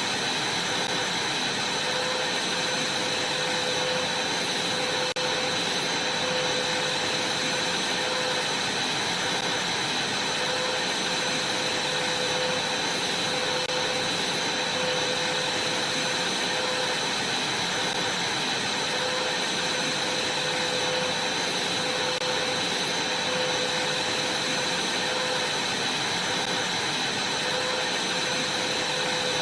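Vacuum cleaner running steadily, a constant rushing of air with a steady motor whine.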